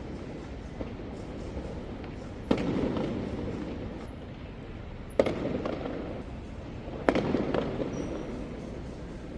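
Fireworks going off: three sharp bangs, a little over two seconds apart, each followed by about a second of low rumbling.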